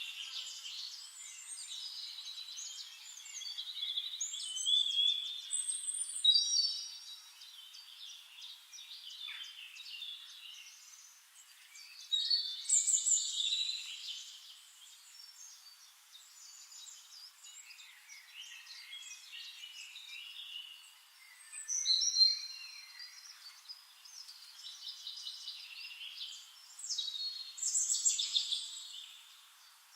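Several songbirds singing and chirping over one another, in bouts of rapid high phrases that swell and fade, loudest about a third of the way in, near the middle and near the end.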